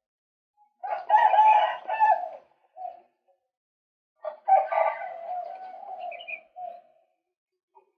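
Male white-breasted waterhen calling: two bouts of loud repeated calls, one starting about a second in and one about four seconds in, each lasting two to three seconds and trailing off into shorter notes.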